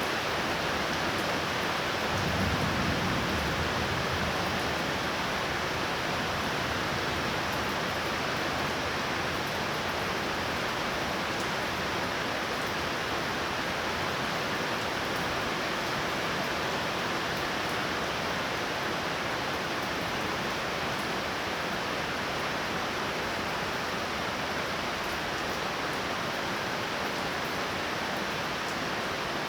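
Torrential rain pouring down in a steady hiss, with a brief low rumble about two seconds in.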